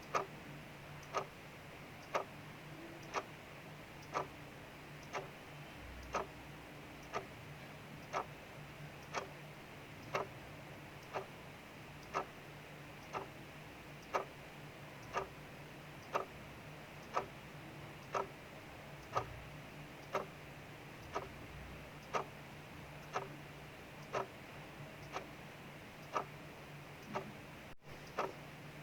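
Clock ticking at about one tick a second, over a steady hiss of rain falling outside.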